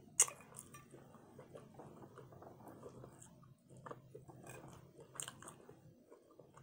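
Quiet close-up eating sounds: a sharp wet smack of fingers being licked clean of barbecue sauce just after the start, then soft chewing and a few faint clicks and smacks.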